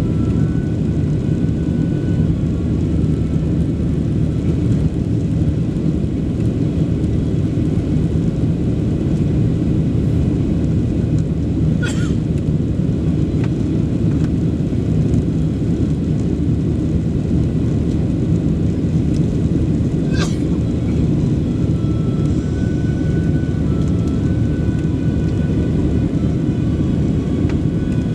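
Steady low rumble of a Boeing 737 Next Generation's jet engines and airflow, heard from inside the passenger cabin. Twice, about eight seconds apart, a brief click cuts through.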